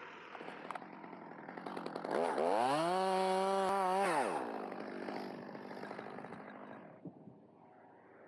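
Chainsaw revving up, held at full speed for about a second and a half, then dropping back down as the throttle is released.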